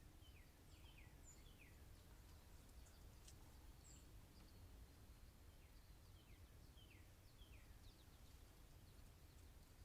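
Faint bird calls: short falling chirps in quick little runs near the start and again about two-thirds of the way through, with a few higher notes, over a low steady background hiss.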